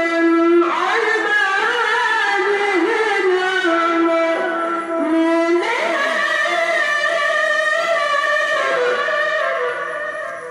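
A qari's melodic Quran recitation: one high voice holding long notes with ornamented turns. A new phrase starts about half a second in and another, starting higher, about six seconds in. The voice fades near the end.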